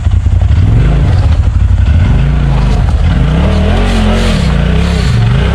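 Side-by-side UTV engine running at low revs, then revving up and down over and over, about once a second, as it works over rough trail.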